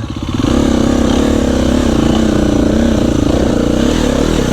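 Dirt bike engine revving under load. The revs climb over the first half second, then hold high with small rises and falls.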